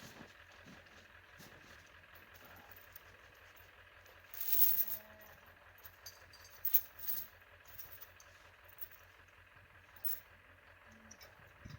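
Gear being handled: a brief rattling burst followed by a few sharp metallic clinks, with a low steady drone underneath.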